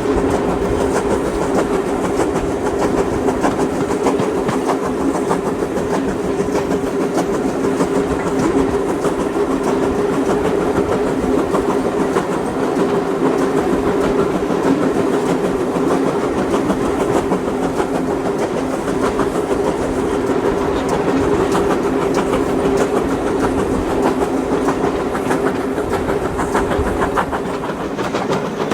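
A train running along the track: a steady rolling rumble with wheel clatter, and a steady drone on two notes.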